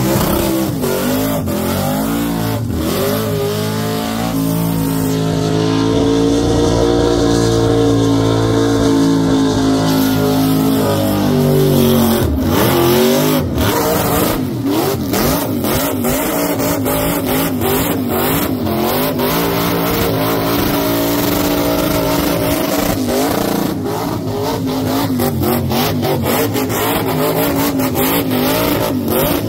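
A high-powered modified car engine revved hard and held at high rpm, its pitch wavering up and down, with runs of sharp cracks about midway and again near the end.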